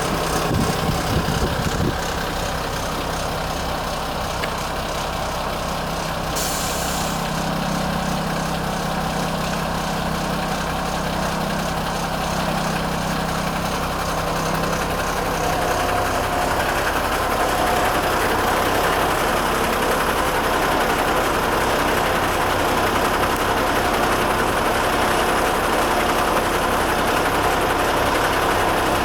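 Renault Midlum 220 dCi truck's diesel engine idling steadily, with a short hiss about six seconds in. The engine note changes and grows slightly louder about halfway through.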